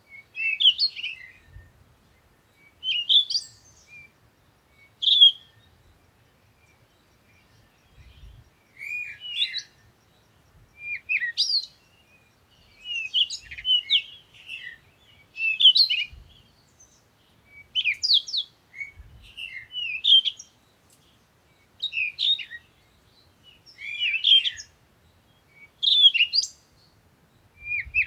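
Songbirds chirping and singing in short, bright phrases that come every second or two, with a pause of a few seconds near the start.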